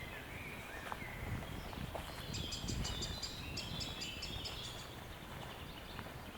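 A songbird singing a fast run of repeated high notes lasting about three seconds, starting about two seconds in, over steady low outdoor rumble.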